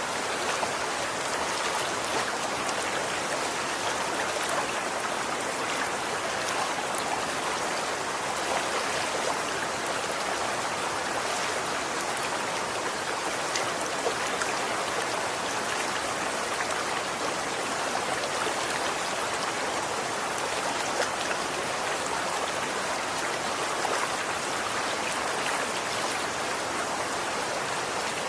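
Running water flowing steadily, with a continuous splashing and babbling spread through the middle and upper range and small droplet-like ticks throughout.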